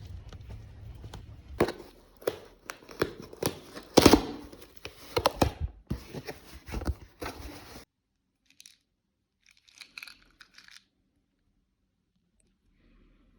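Close-up handling noise: a run of sharp rustles, clicks and tearing sounds for several seconds, like paper or packaging being torn and crinkled. It cuts off suddenly, leaving a few faint soft rustles.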